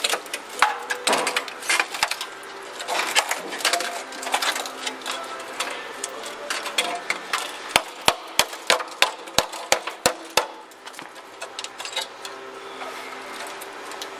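Irregular clicks and knocks of hand tools on car-body sheet metal, with a quick run of about eight sharp strikes a little past the middle.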